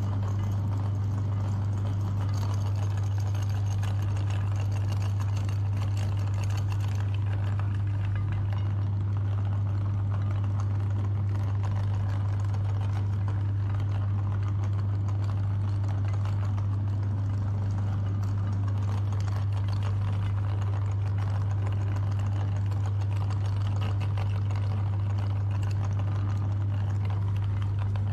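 Electric meat grinder running with a steady, unchanging motor hum.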